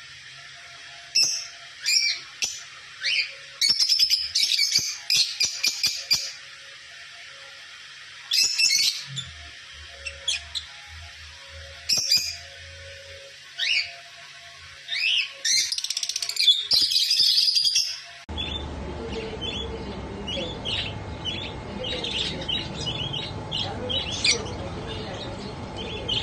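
Lovebirds chirping and squawking in short bursts of sharp, high calls. A little past halfway the sound cuts abruptly to a noisier background, where quicker, softer chirps continue.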